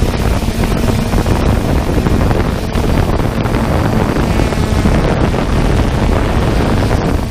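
Wind rushing over the microphone of a flying 3DR Solo quadcopter, with the steady hum of its propellers underneath.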